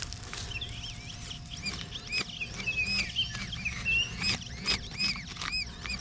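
Small birds chirping in quick, arched whistled notes, one after another, with a faint steady tone underneath.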